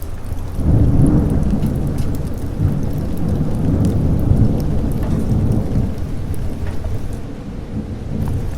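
A long roll of thunder over steady rain. It builds sharply a little under a second in, rumbles on for several seconds and eases near the end, while the rain patters throughout.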